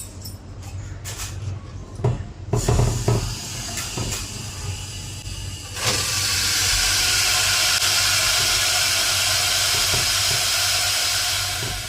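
A few clattering knocks, then about six seconds in a loud, steady hiss of compressed gas jetting through a refrigeration system to blow it clean, easing off near the end.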